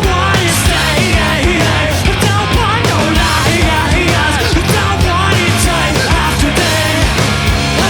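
A rock band playing live: a steady drum beat under electric guitars and bass, loud and continuous.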